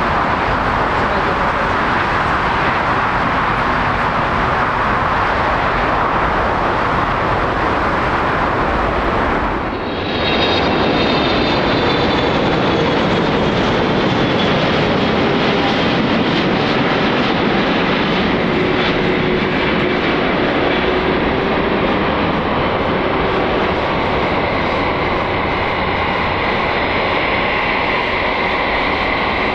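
Jet airliner engines, loud and steady. About ten seconds in, the sound changes abruptly to a second recording in which a high turbine whine sits over the engine noise.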